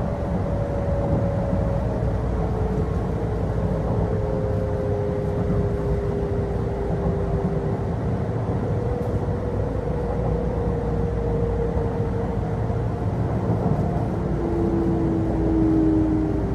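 Running sound inside a Kintetsu electric commuter car as it slows into a station: a steady rumble of wheels on track under several motor whine tones that slowly drop in pitch as the train brakes.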